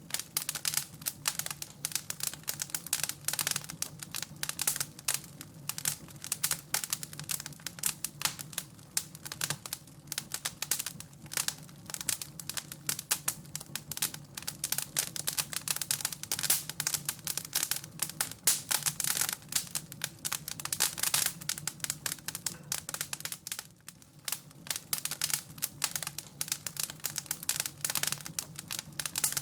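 Wood fire crackling in a fireplace: dense, irregular crackles and small pops throughout, over a low steady rumble.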